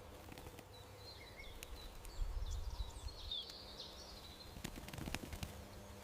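Small birds chirping and twittering faintly over steady outdoor ambience. There is a brief low rumble about two seconds in and a few sharp clicks near the end.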